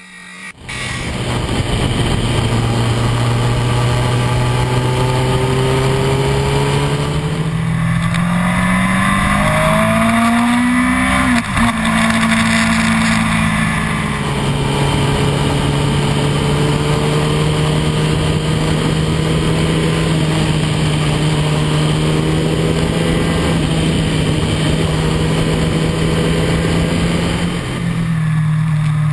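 Yamaha R1's inline-four engine running at a steady cruising pitch with wind rushing past. Around eight seconds in the revs climb, then fall back after about eleven seconds, before the engine settles at a steady pitch again.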